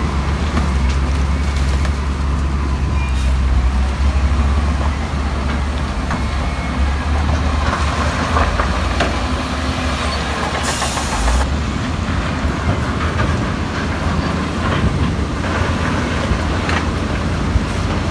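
Heavy diesel earthmoving machinery running steadily, with scattered metallic knocks and a short hiss of air about ten seconds in.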